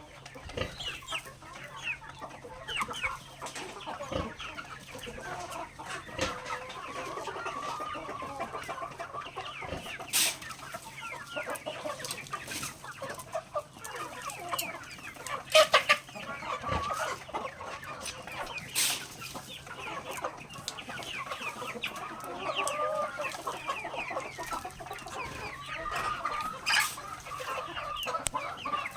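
Small flock of native chickens clucking continuously while pecking grain, with many quick taps and several louder sharp taps standing out.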